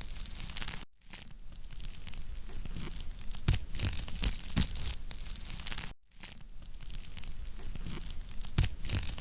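Wood campfire burning, crackling with frequent sharp pops and snaps over a steady hiss. The sound cuts out for an instant twice.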